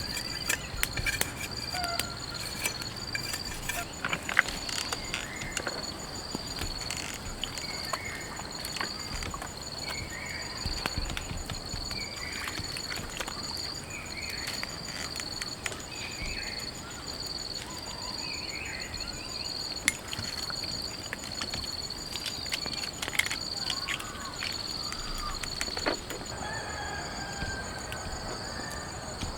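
Night insects calling: a high chirp repeating about once a second over a steady, thin, higher trill. A few short bird-like calls come in the middle, with scattered sharp ticks throughout.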